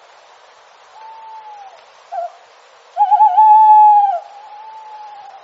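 Owl hooting in clear, held single-pitch hoots: a faint hoot about a second in, a short note near two seconds, then a loud hoot with a wavering start about three seconds in, followed by a fainter one.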